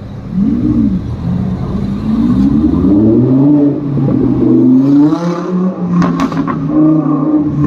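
A supercar's engine revving loudly: a quick blip under a second in, then the revs climb and hold high, with a few sharp cracks about six seconds in.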